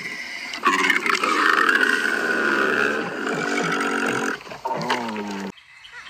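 Camel calling: one long groan of about three and a half seconds, then a few shorter groans, cutting off suddenly near the end.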